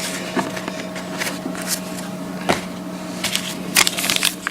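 Trading cards being handled and flipped through by hand: light scattered snaps and rustles that grow busier near the end, over a steady low hum.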